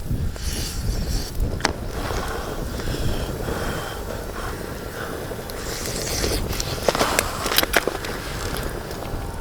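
Strong wind buffeting the microphone in a steady low rumble, with a few sharp clicks or knocks, once early on and twice close together near the end.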